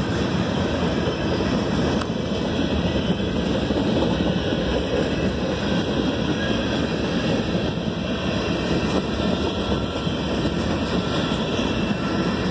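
CSX freight train's cars rolling past at speed: a steady rumble of steel wheels on the rails.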